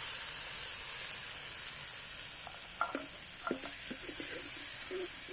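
Ground ginger, garlic, chilli and curry-leaf paste sizzling in hot coconut oil in a pan and being stirred, a steady hiss of frying once its raw smell has cooked off. A few short squeaks and clinks from the stirring come in over the second half.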